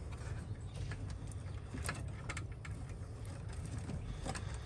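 Scattered light clicks and rustling of a hand fumbling behind a car's steering column under the dashboard, over a steady low hum.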